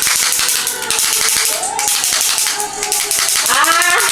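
Gift packaging crinkling and rustling as it is handled, a quick run of crackles over faint background music. A voice comes in singing near the end.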